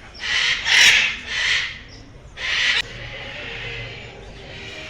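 A parrot giving four harsh squawks in quick succession. Near the end the sound cuts abruptly to a quieter, steady background.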